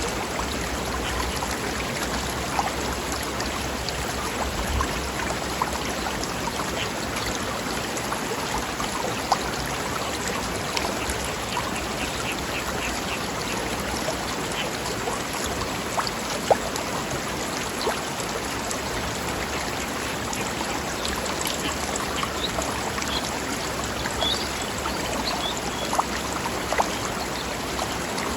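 Mountain stream babbling over rocks: a steady rush of running water with scattered small splashes and gurgles.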